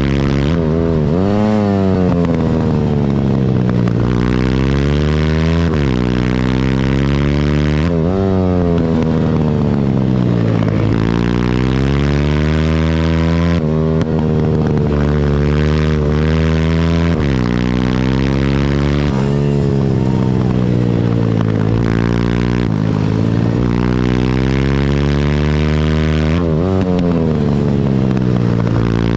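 Pitbike's single-cylinder four-stroke engine being ridden hard, revving up and dropping repeatedly as it shifts and slows for corners. It climbs in pitch, then falls away sharply or sweeps down, about a dozen times.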